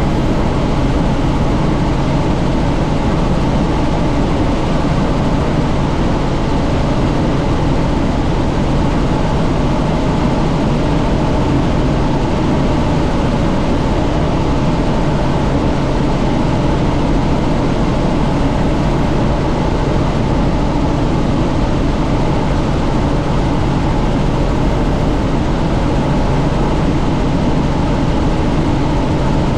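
Helicopter in steady cruise heard from inside the cabin with the doors off: a constant loud drone of rotor and turbine mixed with rushing wind.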